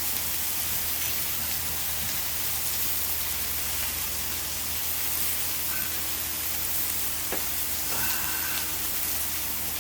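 Meat sizzling steadily on a hot cast-iron griddle.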